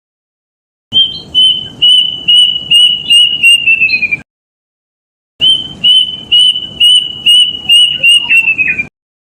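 Kedasih cuckoo (Cacomantis) song played as a lure call: two series of evenly spaced high, whistled notes, each series quickening and falling in pitch at its end, with a pause of about a second between them.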